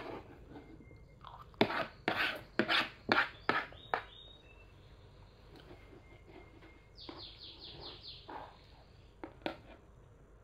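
Close-up eating sounds from a child eating rice and omelette: a quick run of about six loud, sharp crunching and smacking bites between about one and a half and four seconds in, then softer chewing. A short high chirping trill comes about seven seconds in.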